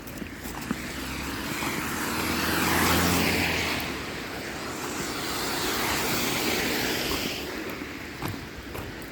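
Vehicles passing on a wet road: the hiss of tyres on water swells and fades, with the low hum of an engine at the first pass about three seconds in, then a second, softer pass a few seconds later.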